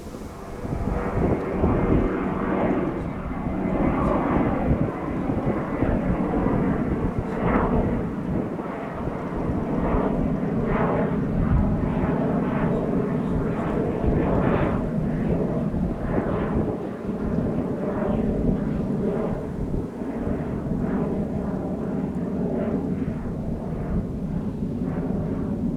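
Turbofan engines of an Airbus jet airliner passing close by: a loud, steady jet noise with held whining tones and a rough crackle, swelling about a second in and staying loud.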